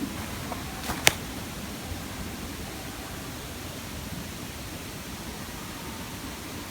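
Steady hiss with one sharp click about a second in.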